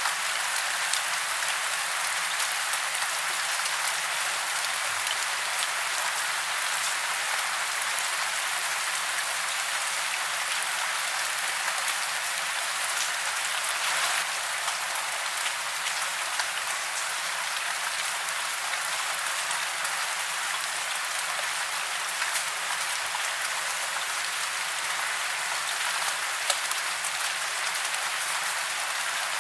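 Steady rain falling in a forest, a dense even hiss of drops with many small patters.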